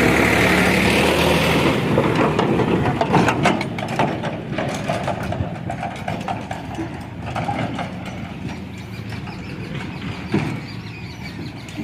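Heavy diesel engine running hard, loudest for the first couple of seconds and then easing off. A run of knocks and rattles comes about three seconds in, and another knock near the end.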